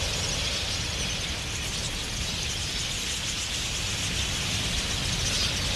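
A huge flock of wild budgerigars wheeling in the air: a steady, dense wash of rushing wings and massed high chattering calls.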